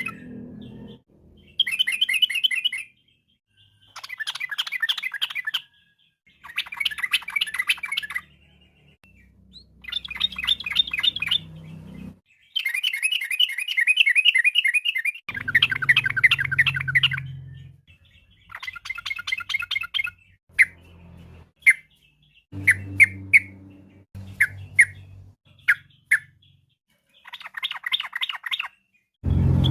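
Sooty-headed bulbul (trucukan) singing a run of short, bubbly phrases of rapid notes, each lasting one to two seconds, with brief pauses between them. About two-thirds of the way through, the phrases give way to a few single sharp notes before the phrases return.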